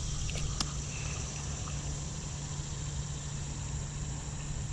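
Steady high-pitched insect chorus over a low steady rumble, with a few faint clicks in the first second.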